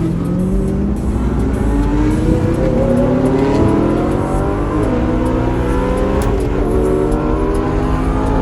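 Several high-performance sports car engines revving and accelerating at once, their pitch climbing repeatedly as one car after another pulls away.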